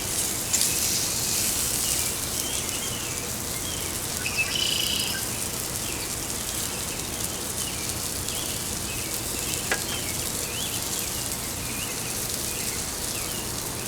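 Food sizzling on a grill, a steady hiss, with birds chirping now and then and a single sharp click about ten seconds in.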